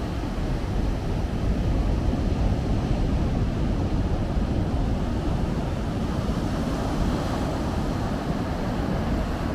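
Steady low rumble of ocean surf with wind buffeting the microphone, swelling slightly a couple of seconds in.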